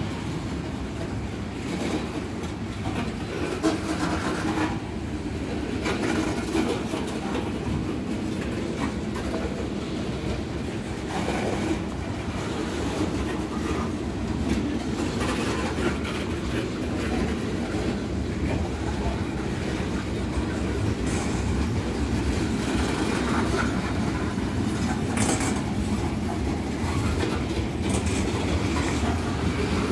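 Freight train of gondola cars rolling past close by: a steady rumble of steel wheels on the rails, with scattered sharp clicks and knocks.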